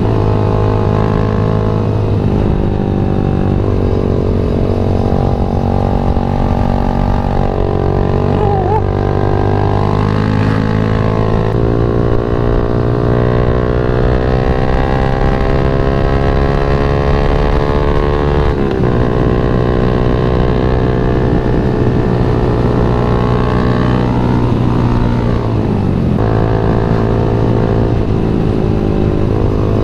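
Yamaha MX King 150's single-cylinder four-stroke engine running under way, its pitch climbing and falling as the rider accelerates and eases off, with a sharp drop about two-thirds of the way through and another fall near the end.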